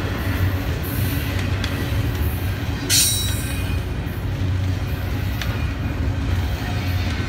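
Double-stack container well cars rolling past: a steady low rumble of wheels on rail. About three seconds in comes a brief, high, ringing metallic wheel squeal, and a couple of fainter clanks follow later.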